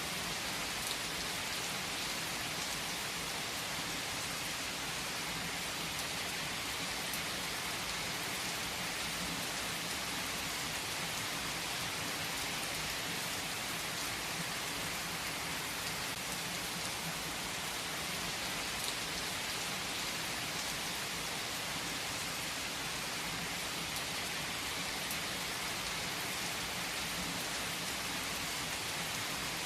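Steady rain falling on a surface: an even hiss with occasional single drop ticks standing out from it.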